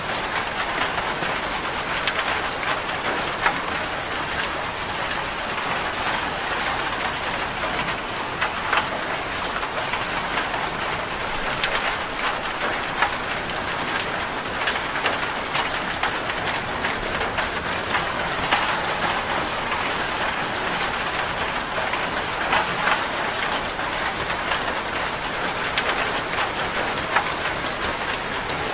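Steady rain falling, with scattered sharp ticks and taps through it.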